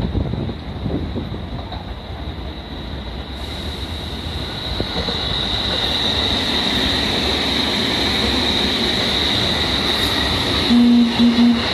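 Electric commuter train running by, its rumble carrying a steady high whine that grows louder after about three seconds. Near the end a short low tone sounds three times in quick succession, louder than the train.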